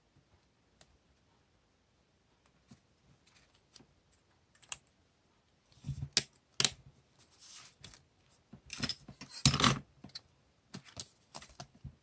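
Paper and stationery being handled on a desk: scattered clicks and taps, with rustling and a few louder crinkles between about six and ten seconds in, the loudest just before ten seconds.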